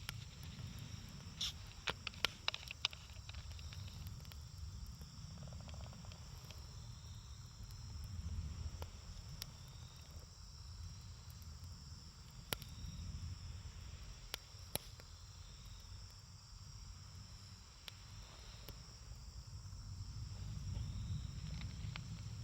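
Campfire burning with a low rumble and scattered sharp crackles and pops of burning wood, a cluster of them a couple of seconds in. Crickets or other insects chirp steadily in the background.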